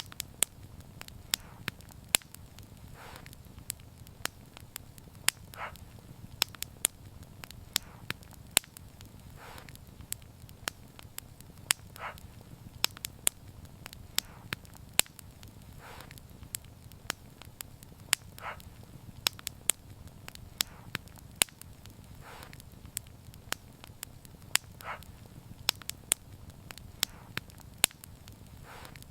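Wood fire burning: sharp, irregular crackles and pops over a low steady rumble, with a soft hiss about every two to three seconds.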